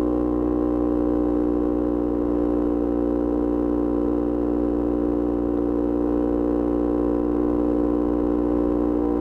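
Yamaha R25 V1's parallel-twin engine, breathing through a Kea Speed aftermarket exhaust, running at steady revs with a smooth, even hum whose pitch hardly changes.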